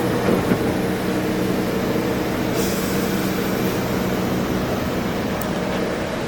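Staten Island Railway subway train running, a steady hum with a few steady tones and a hiss that comes in about two and a half seconds in.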